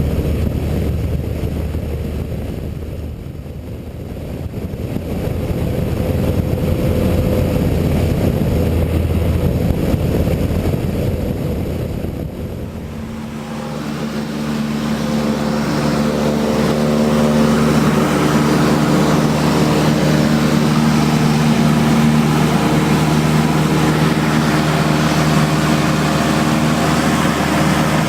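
Cessna 152's four-cylinder piston engine and two-blade propeller droning steadily in flight. About halfway through the sound changes suddenly from a rough low rumble to a smoother hum with clear steady tones.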